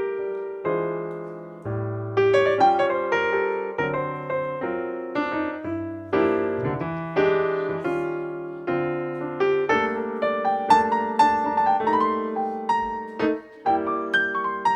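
Background piano music: a gentle melody over held chords, with notes struck and decaying.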